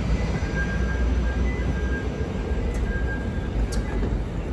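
CTA 5000-series rail car at a station platform: a steady low rumble with a faint high whine that comes and goes, and a couple of small ticks near the end.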